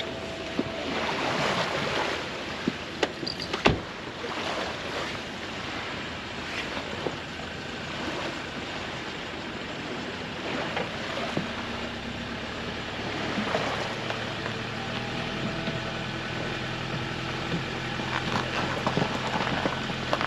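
Water lapping and splashing around a small boat's hull as it is recovered onto its trailer, with a few knocks, one sharp one just under four seconds in. A steady low engine hum comes in about two-thirds of the way through.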